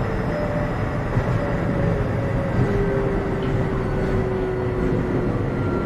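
Keio 7000 series electric train running, heard from inside the car: a steady rumble of wheels on rail, with a faint motor whine slowly falling in pitch.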